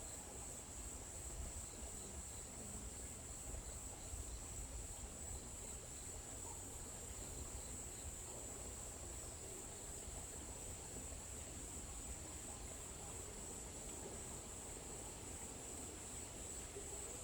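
A steady, high-pitched chorus of insects trilling without a break, over a faint low rumble. A faint, quick series of chirps runs beneath it in the first half.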